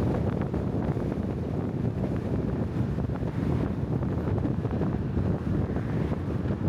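Wind buffeting the microphone over a steady low rumble, with faint scattered ticks.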